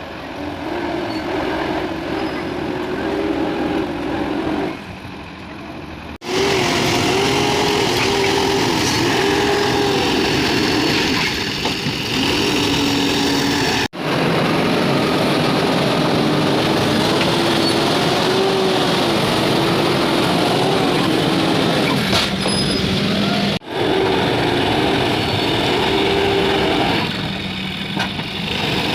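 Diesel engine of a Case 851FX backhoe loader working, its pitch rising, falling and holding as the hydraulics take load during loading. There are abrupt cuts three times.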